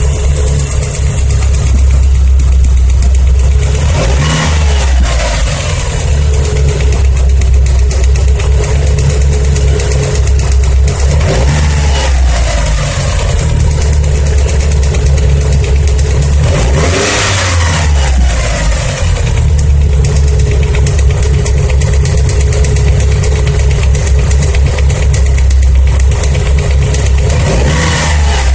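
Mitsubishi 4G63 turbocharged inline-four idling and blipped four times, most sharply about two-thirds of the way through. A tapping comes from the number-one cylinder on the intake side, the fault the engine is being recorded to show.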